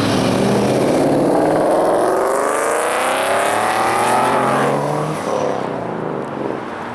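Muscle car engine accelerating hard, its pitch rising smoothly for about four seconds, then falling away and getting quieter.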